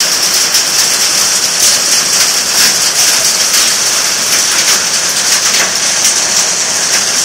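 Heavy rain pouring down in a thunderstorm: a steady hiss dotted with many sharp ticks of drops striking surfaces.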